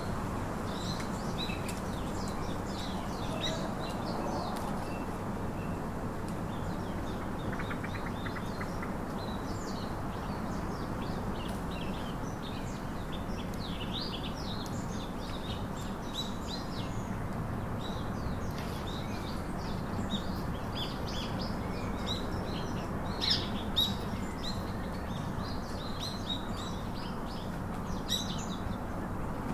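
Parakeets chirping: many short, high calls scattered throughout, over a steady low background noise.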